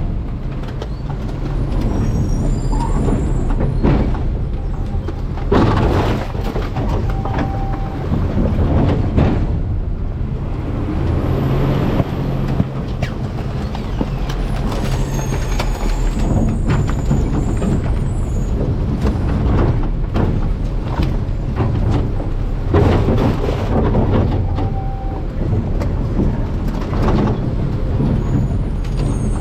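Garbage truck engine running steadily, with irregular knocks and crunching of trash in the rear hopper.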